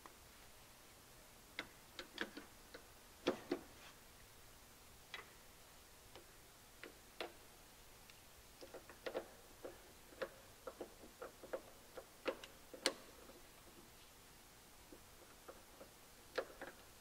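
Hydraulic hose quick-couplers being handled and pushed onto a tractor's hydraulic ports: irregular sharp metallic clicks and knocks, some in quick pairs, with the tractor's engine off.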